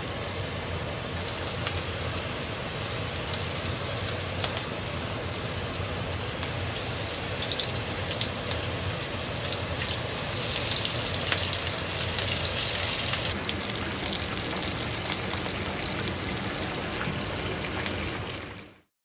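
Battered chicken lollipops deep-frying in hot oil: a steady sizzle with fine crackling, cutting off suddenly near the end.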